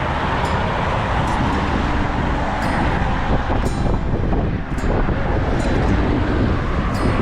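A car driving: steady road and tyre noise with a low rumble, and brief ticks now and then.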